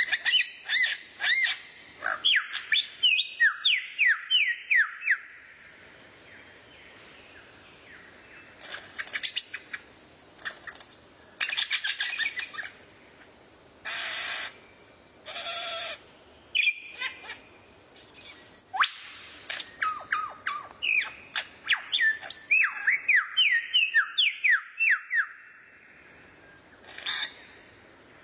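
A songbird singing: two long runs of quick downslurred whistled notes, one at the start and one past the middle, with short harsh, buzzy calls and pauses between them.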